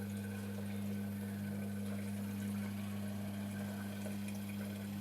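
Washing machine drain pump running with a steady low hum as water drains through it.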